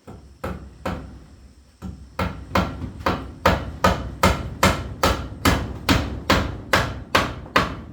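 Hammer blows: two strikes, then, about two seconds in, a steady run of about two to three blows a second.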